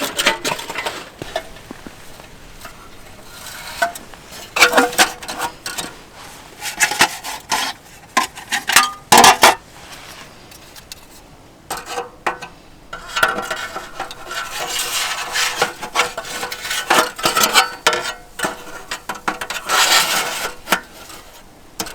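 Metal camping gear being handled: irregular clinks, clatters and rubbing, in clusters with short pauses, some knocks ringing briefly.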